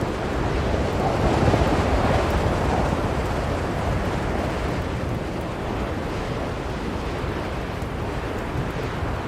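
Blizzard wind blowing in a steady low rush that swells between about one and three seconds in, then eases.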